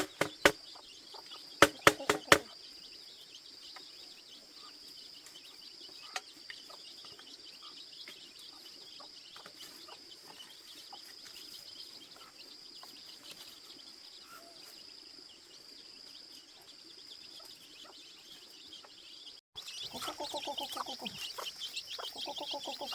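Chickens clucking over a steady high-pitched background drone. Several sharp knocks come about two seconds in, and the clucking grows louder near the end.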